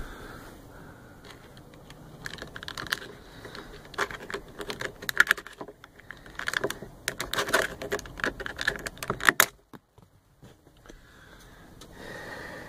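A fitting inside a pickup cab being worked up and down by hand to free it: runs of light clicks and rattles in irregular clusters, stopping near the end.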